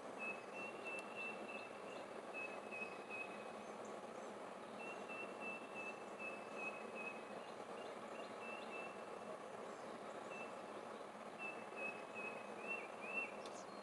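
A small bird chirping in several runs of short, quick, high notes at one pitch, with a couple of swooping chirps near the end, over a steady outdoor background hiss. A single sharp click comes near the end.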